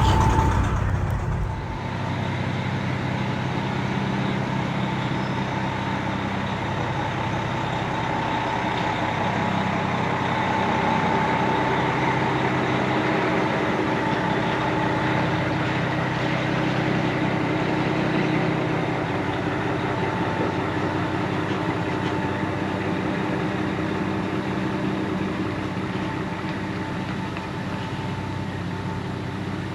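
Semi-truck's diesel engine running steadily, heard with its cab and road noise; the sound changes abruptly about a second and a half in, then holds even.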